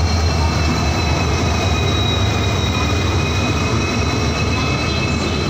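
WDP 4D diesel-electric locomotive (EMD 16-cylinder two-stroke engine) running as it hauls a passenger train into the station: a loud steady low engine drone with rolling noise and a steady high whine above it.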